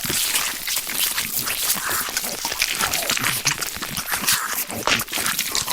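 Homemade creature sound effect for King Shark: a dense, continuous crackle of clicks with low, gliding growl-like sounds underneath.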